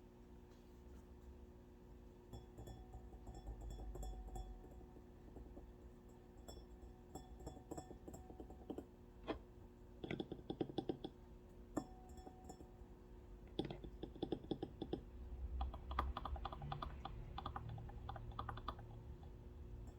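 Typing on a computer keyboard. Runs of quick keystrokes come in bursts with short pauses between them, and there are a few single key presses.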